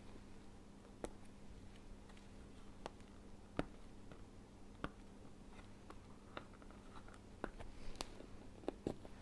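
Faint scattered clicks and taps of a cardboard board book being handled as a lift-the-flap is opened, over a low steady hum.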